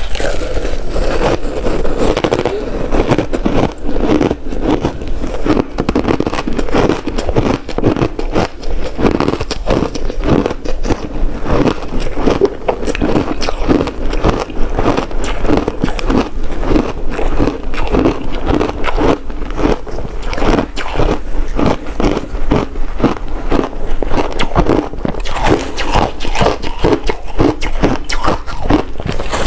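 Ice being bitten and chewed up close to the microphone: a fast, unbroken run of crackling, crunching bites.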